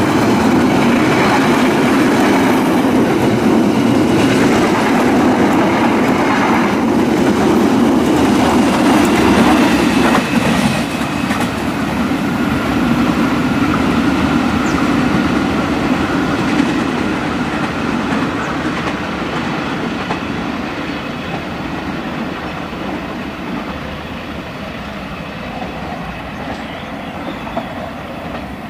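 Passenger train coaches rolling past on the rails, loud and steady; about ten seconds in the sound changes and then fades steadily as the train draws away.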